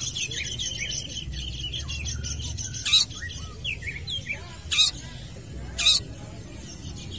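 Long-tailed shrike (cendet) singing a rapid string of short chirps and quick whistled glides, broken by three loud sharp calls about three, five and six seconds in.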